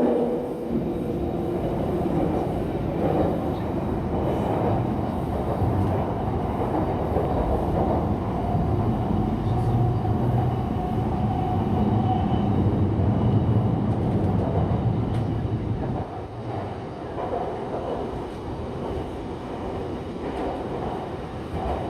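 Shanghai Metro Line 9 train running between stations, heard from inside the car: a steady rumble of wheels and traction equipment, with a faint whine near ten seconds in. It gets noticeably quieter about 16 seconds in.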